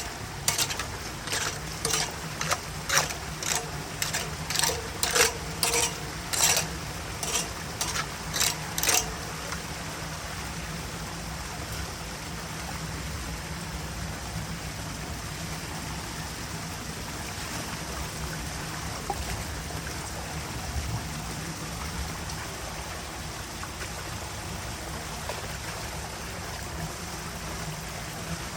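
Water running steadily through a storm drain. A string of sharp knocks, about one and a half a second, runs through the first nine seconds, then stops. A low steady hum lies underneath.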